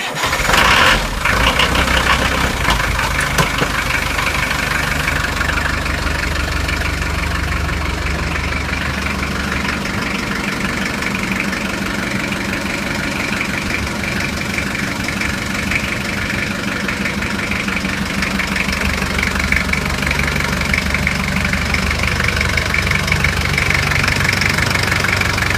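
Perkins 4.154 four-cylinder diesel engine just started cold on starting fluid, surging briefly in the first second or two and then idling steadily.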